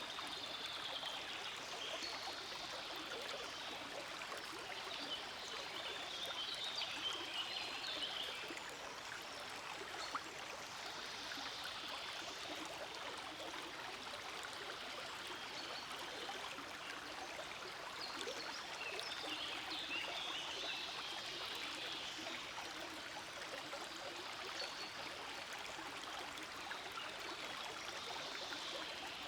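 Forest stream flowing steadily, a continuous rush of running water that swells into brighter splashing twice.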